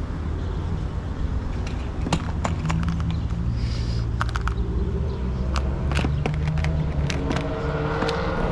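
A vehicle engine idling steadily with a low hum, with a run of sharp clicks and taps over it from about two seconds in.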